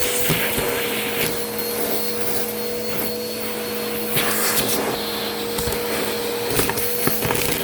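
Vacuum cleaner running steadily with a constant motor hum, while scattered sharp clicks and crackles come from bits of crunchy debris being sucked up.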